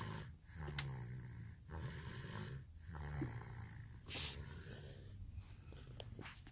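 Young child snoring in deep sleep, a slow run of soft, rhythmic snoring breaths.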